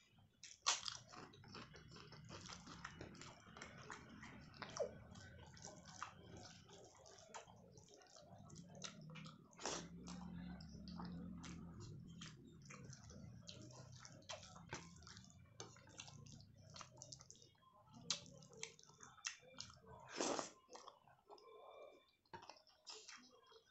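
A person chewing and biting food close to the microphone, with many small sharp mouth clicks and a few louder crunches scattered through.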